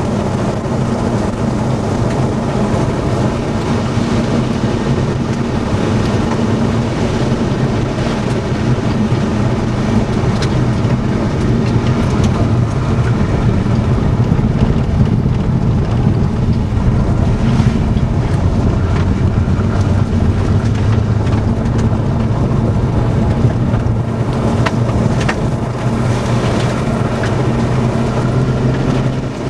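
Steady drone of engine and road noise inside a moving car, with wind rushing past.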